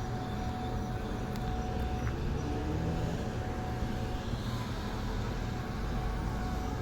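Steady cabin noise of a passenger airliner in flight: an even low roar of engines and airflow with a faint steady hum.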